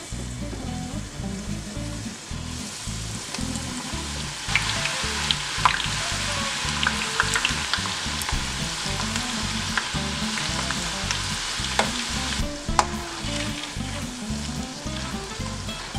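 Tortilla strips deep-frying in very hot oil in a skillet: a steady sizzle with scattered sharp pops and clicks, stirred with a metal spoon. The sizzle grows louder a few seconds in as the strips fill the pan.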